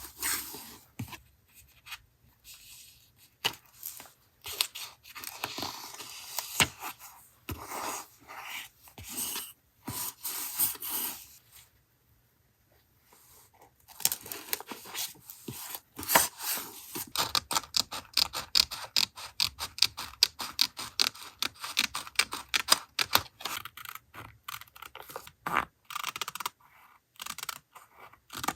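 Paper being handled for collage journaling: rustling and tearing at first, then a short pause, then a long run of quick, even cutting strokes from scissors going through paper.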